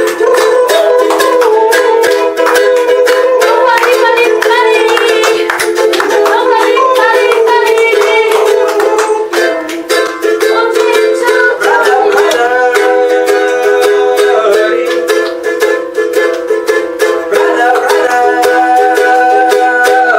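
Accordion music: sustained chords and a melody held on steady reeds, changing every few seconds.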